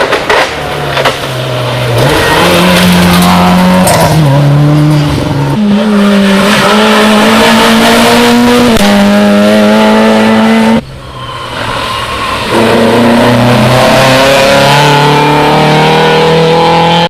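Rally car engine under full throttle on a special stage, climbing through the gears with several quick upshifts. About eleven seconds in the sound drops suddenly, then picks up and climbs again, and it cuts off abruptly at the end.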